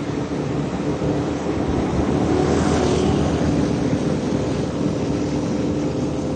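Motorbike engine running steadily while riding, with wind rushing over the microphone; a louder swell of rushing noise about two and a half seconds in.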